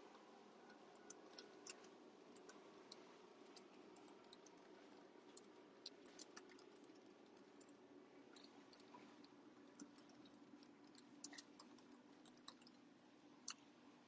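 Near silence: faint room tone with a low steady hum and scattered faint, irregular clicks.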